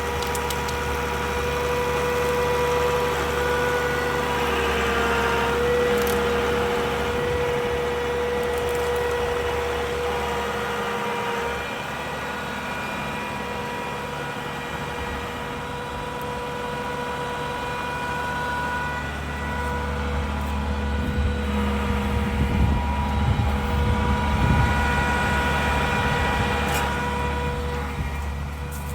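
Tractor engine running steadily, getting louder and rougher for a few seconds about two-thirds of the way through.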